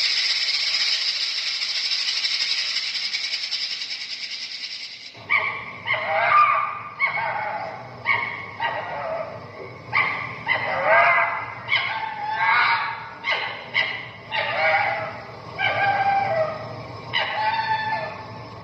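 A steady hiss for about five seconds, then a dog barking and yelping in a run of short calls.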